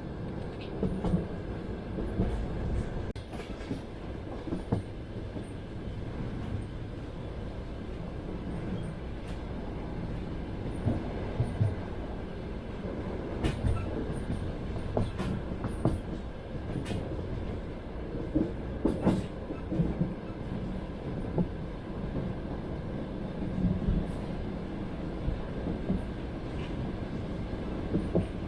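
Passenger train car rolling over the rails, heard from inside the carriage: a steady low rumble with scattered sharp knocks and clicks from the wheels and car body.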